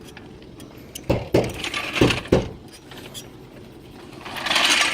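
Four sharp metallic clanks in the first half, two close pairs, then a rough scraping hiss near the end.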